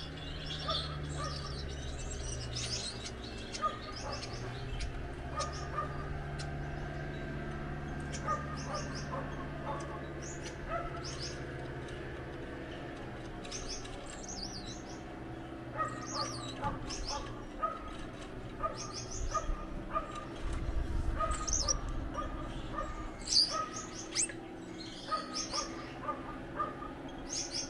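Gouldian finches singing and chirping in short high trills, over a steady low hum.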